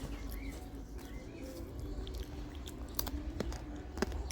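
A person chewing crunchy microwave popcorn, with a few sharp crunches in the second half.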